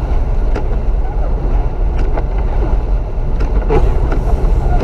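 Strong gusting blizzard wind buffeting the microphone: a loud, steady low rumble with scattered small ticks.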